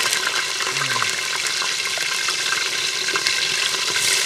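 Chicken searing in hot oil with whole spices in a pan: a steady sizzle with many small crackles.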